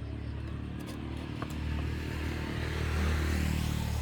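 An engine running steadily, getting louder through the middle of the clip, with a rising hiss above it.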